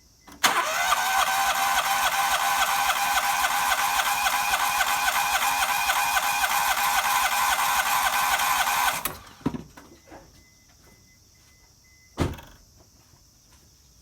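A motor runs steadily with a fast, even rhythm for about eight seconds, then cuts off suddenly, followed by two short knocks.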